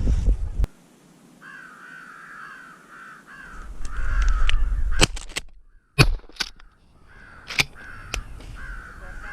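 American crows cawing: a steady series of harsh, repeated caws from about a second and a half in. It is broken by several sharp knocks, the loudest about six seconds in, and wind buffets the microphone for a moment.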